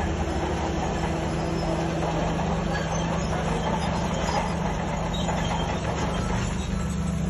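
Heavy earthmoving machine's diesel engine running steadily at a constant low pitch.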